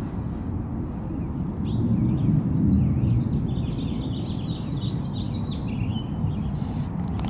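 Small birds chirping in a quick, twittering run over a steady low rumbling noise, with a few sharp clicks near the end.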